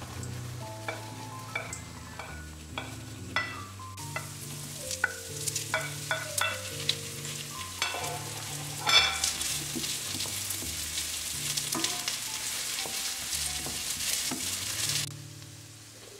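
A sizzling hiss with scattered clicks over background music. The hiss grows loud about halfway through and cuts off abruptly near the end.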